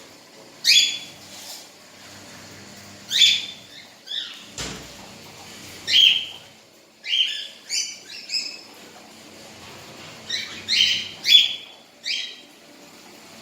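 Parakeet calling: a series of short, sharp chirps that fall slightly in pitch, some single and some in quick runs of two or three, at irregular intervals. A single dull knock comes about four and a half seconds in.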